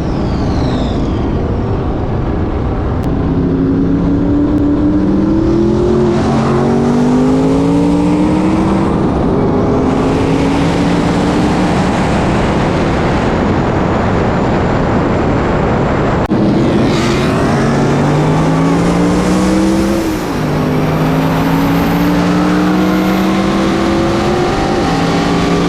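Modified Ford Mustang V8 engines at full throttle, pulling hard through the gears: the engine pitch climbs steadily and then drops at each upshift, several times over.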